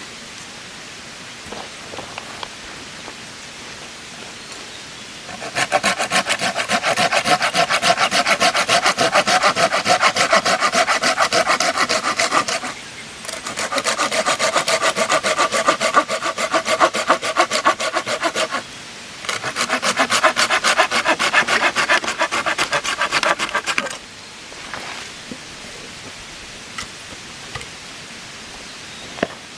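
Hand saw cutting wood in quick, even back-and-forth strokes, in three bouts with short pauses between them, starting about five seconds in and stopping a few seconds before the end.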